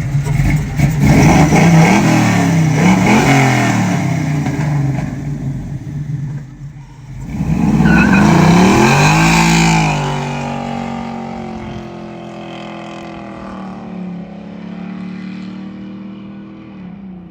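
Chevrolet Monte Carlo SS with a swapped-in 5.3 LS V8 and stage 2 cam, accelerating away. It makes two loud surges of revs, with a brief drop around six seconds in, then the engine note steadies and fades as the car goes off down the road.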